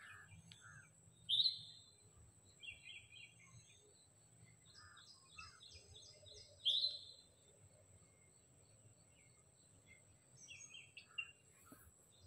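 Several birds calling: runs of quick, high chirps, with a loud, sharp rising call standing out twice, about five seconds apart.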